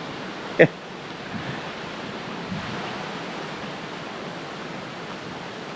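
Wind blowing in a steady, even hiss, a sound like "shh". A brief sharp sound stands out about half a second in.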